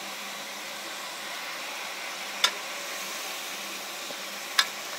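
Chicken pieces frying on high flame in mustard oil in a metal kadhai: a steady sizzle. A metal spoon stirring in the pan gives two sharp clinks, about halfway through and near the end.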